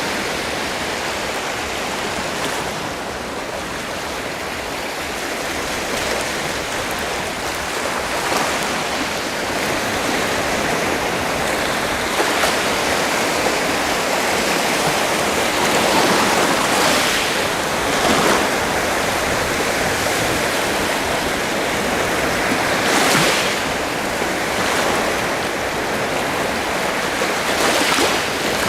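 Sea surf: a continuous wash of waves, with a wave breaking and surging up every few seconds.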